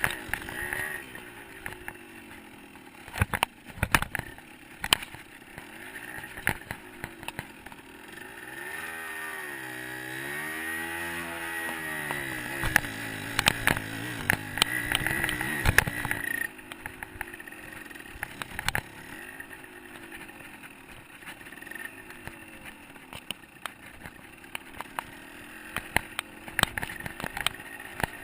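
A 125cc two-stroke dirt bike engine revving up and down while riding, with frequent sharp knocks and clatter. The engine pulls hardest through the middle, rising and falling in pitch, then drops back about two-thirds of the way through.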